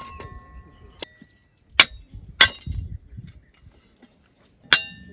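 Metal camp gear being handled: three louder sharp knocks and clinks, about a second and a half in, half a second later, and near the end, with a lighter tap between. The last one rings briefly like struck metal.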